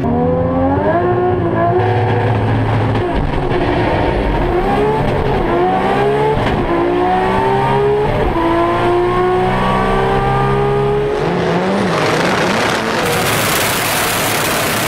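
Toyota Supra drag car's inline-six engine at full throttle on a drag strip pass, its pitch climbing through each gear and dropping at every shift, heard from inside the car. About thirteen seconds in, a louder, harsher engine noise takes over.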